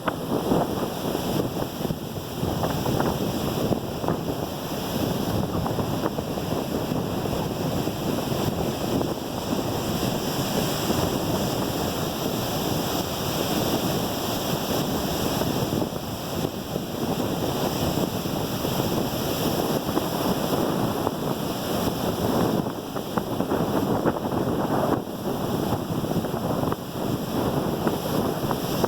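Rough sea surf breaking continuously, swelling and easing every few seconds, with strong wind buffeting the microphone.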